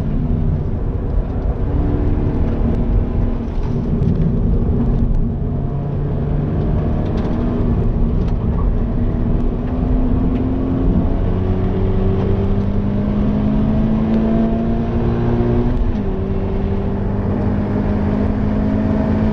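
Toyota GT86's FA20 2.0-litre flat-four engine under hard acceleration, heard from inside the cabin. Its note climbs slowly and drops abruptly about three times.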